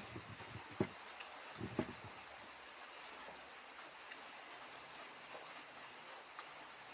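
A person eating: a few dull knocks and mouth sounds in the first two seconds, then scattered soft clicks over quiet room noise.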